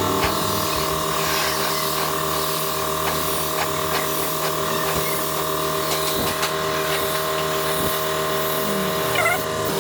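Power tool motor running steadily, with a few light clicks over it.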